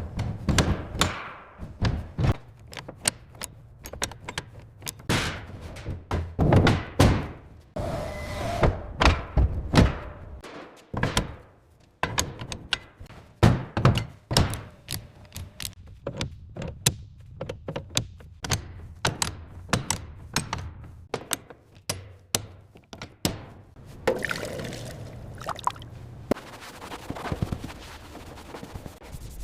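An irregular series of sharp knocks and thunks, several in a second at times, running on for more than twenty seconds. Near the end they thin out into a softer, noisier stretch.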